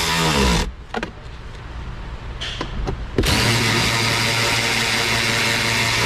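Cordless power driver running bolts in: a run that winds down about half a second in, a few light clicks, then a steady run of about three seconds that stops at the end.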